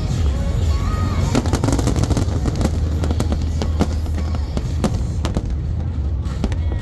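Fireworks going off in quick succession: a rapid, irregular string of sharp cracks and bangs over a steady low rumble.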